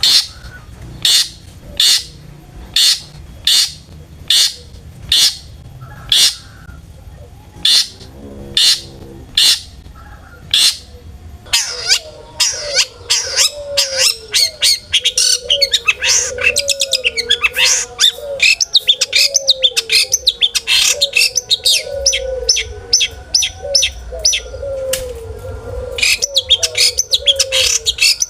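Long-tailed shrike singing loudly: a run of harsh, sharp calls repeated evenly, a little under one a second, then, about twelve seconds in, a fast, dense chatter of varied notes. The song is full of mimicked notes of other birds (isian).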